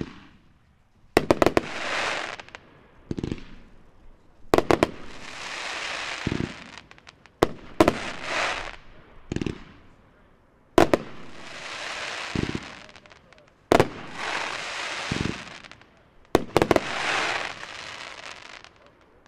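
Dominator 'Adrenaline Rush' 500-gram multi-shot firework cake firing. About every three seconds comes a sharp report followed by a noisy spray lasting a second or two, with a low thud between volleys, six times over.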